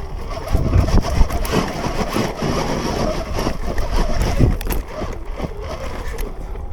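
Sur-Ron electric dirt bike ridden hard up a dirt hill: wind buffeting the microphone and the tyres and chassis rattling and knocking over the dirt, loudest for the first few seconds. Near the end a thin electric motor whine falls in pitch as the throttle comes off.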